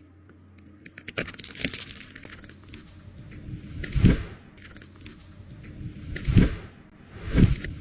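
Wood cracking and snapping, then three heavy crashes, each swelling up to a deep thud, the last two about a second apart: a tree trunk breaking and coming down.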